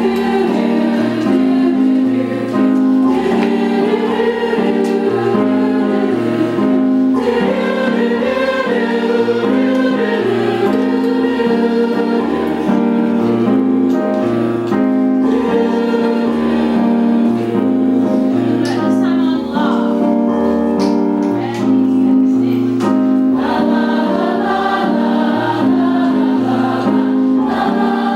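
A choir singing a gospel-style song over an instrumental accompaniment with a bass line that steps between held notes; the music comes in suddenly at the start.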